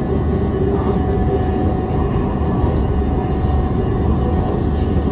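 CSR Zhuzhou 'AMY' light rail vehicle running on the line: a steady rumble of wheels on rail with a constant electric motor hum.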